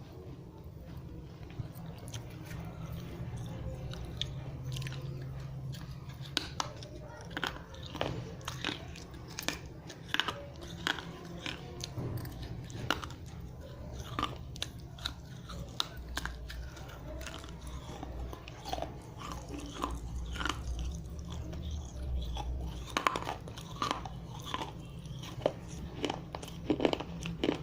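Dry unglazed red clay diya pieces being bitten and chewed up close, a string of sharp irregular crunches and cracks, thickest in the last few seconds.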